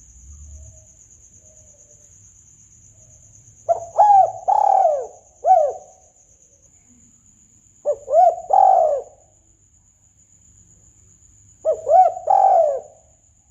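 Spotted dove cooing: three phrases, each a quick run of short rising-and-falling coos, about four seconds apart. It is a lure call for hunting the bird.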